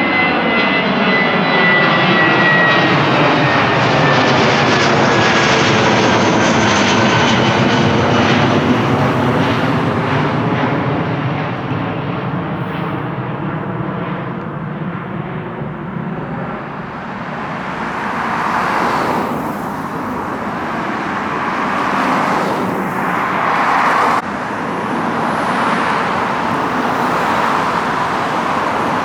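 Jet airliner's engines during a low climb-out overhead: a loud roar with a high whine that falls in pitch as it passes, fading over about fifteen seconds. In the second half, swells of passing road traffic come through, with an abrupt change about three-quarters of the way through.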